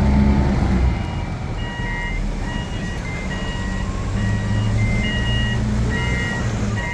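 Diesel engine of a Nippon Sharyo DH408-95M crawler pile driver running, easing off about a second in and building again near the middle. Over it, from about a second and a half in, a warning alarm repeats a short tune of electronic beeps at several pitches.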